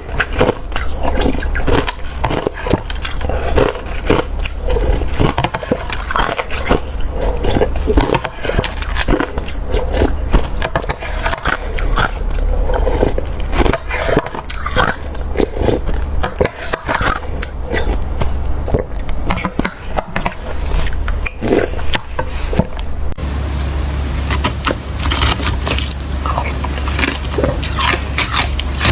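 Watery, slushy ice being bitten and chewed close to the microphone: dense, irregular crunching and squishing bites one after another.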